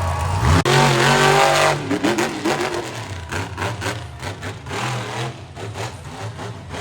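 Monster truck engine going from a low idle into a hard rev about half a second in, then revving up and down unevenly, fading somewhat toward the end.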